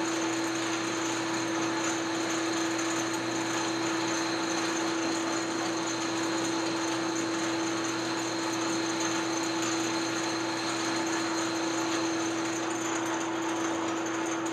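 A shop power tool running steadily: a constant hum with a fainter high whine over a haze of mechanical noise.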